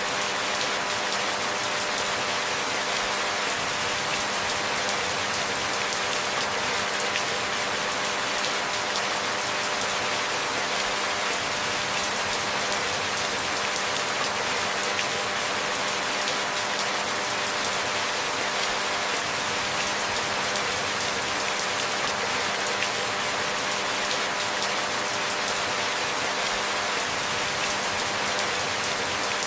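Steady rainfall, an even hiss that holds without sudden changes.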